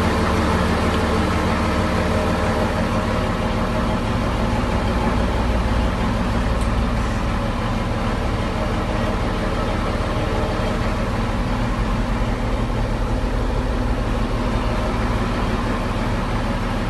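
1960 Scania L75 truck's diesel engine idling steadily.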